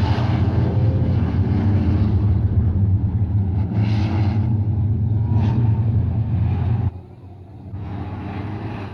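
Racing trucks' diesel engines running on the circuit, a steady low drone with brief rises in noise about four and five seconds in, cutting off abruptly about seven seconds in.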